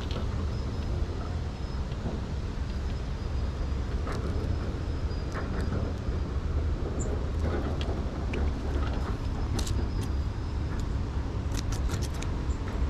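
Steady low outdoor rumble with a few light clicks and ticks scattered through it, thickest near the end.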